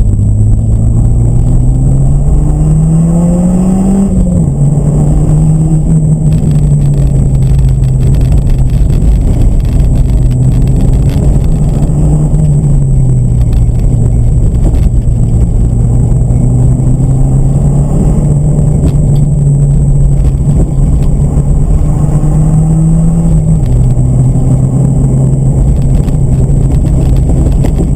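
Car engine heard from inside the cabin, driven hard on a timed dirt-course run. The engine note climbs over the first few seconds, then drops sharply with a gear change about four seconds in. It holds fairly steady after that, with further sharp drops near the middle and near the end, over a steady low rumble of road noise.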